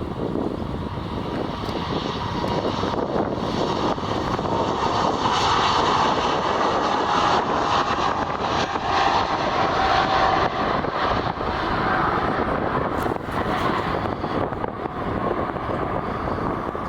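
Airliner passing overhead, its engine noise swelling to a peak about midway and then fading, with a faint whine that drops in pitch as it goes by.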